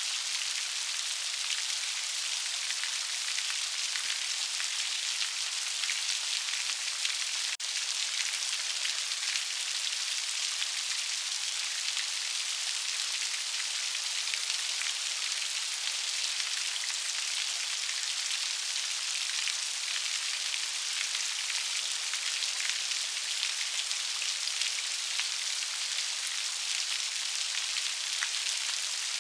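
Steady rain, a dense hiss of many small raindrops pattering without letup.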